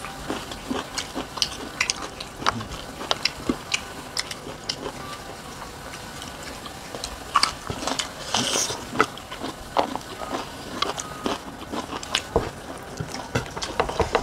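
Close-up eating sounds: crisp bites and chewing of raw green vegetables, many short crunches and smacks, with a brief hissing slurp about eight seconds in.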